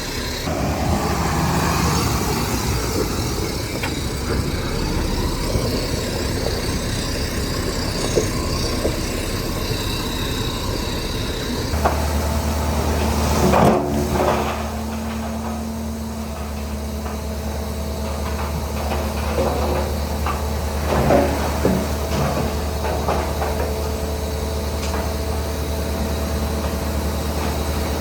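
Heavy earthmoving diesel machinery running steadily. About twelve seconds in the engine note changes to a steadier low hum, and a few sharp metallic clanks and knocks ring out over it.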